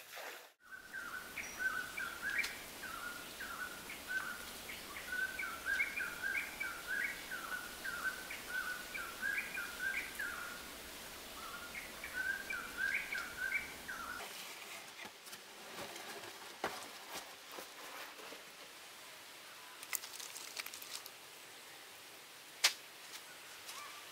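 A bird singing a long, fast run of short chirping notes, then a quieter outdoor background with a few faint taps and one sharp click near the end.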